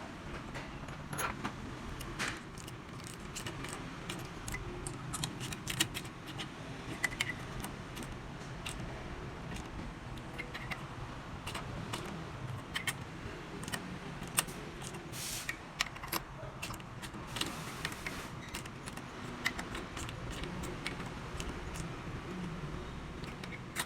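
Irregular metallic clicks and clinks of hand tools and small metal parts being handled, over a steady low hum.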